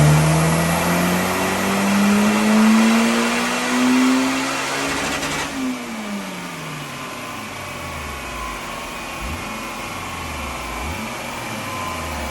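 Toyota MR2's 2ZZ-GE four-cylinder engine pulling at full throttle on a rolling road, its revs climbing steadily for about five seconds. The throttle then closes suddenly, and the revs fall away as the car runs down on the rollers.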